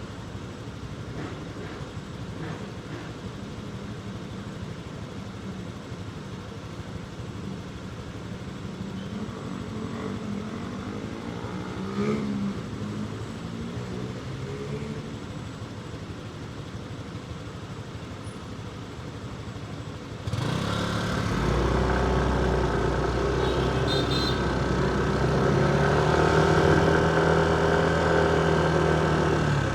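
Motorcycle engine running through city street traffic, with other vehicles' engines around it. About two-thirds of the way in, the engine sound jumps louder and holds several steady tones.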